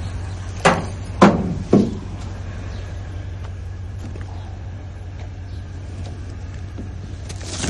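A steady low mechanical hum, with three short knocks close together in the first two seconds, the second the loudest.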